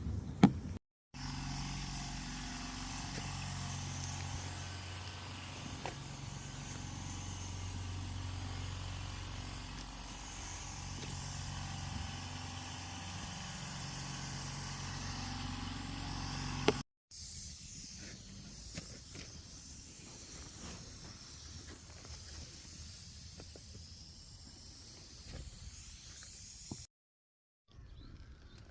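Steady air hiss from a bodywork air tool, in edited stretches that cut off abruptly. A low hum runs under the first stretch, and light clicks come through the second.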